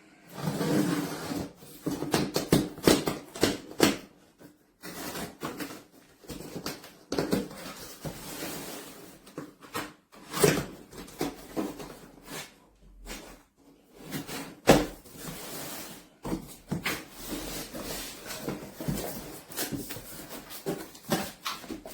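Cardboard box and packaging being opened and handled: irregular rustling, scraping and knocks, with a sharper thump about ten seconds in and another about fifteen seconds in.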